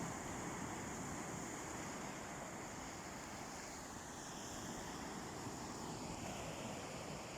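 Sea waves washing steadily onto a beach, heard as an even rush, with wind buffeting the microphone.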